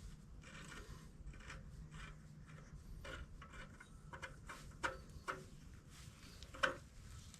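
Scattered light clicks and knocks of bolts and hand tools being handled while the torque converter is bolted to the flywheel, over a low steady hum; the sharpest knocks come about five and six and a half seconds in.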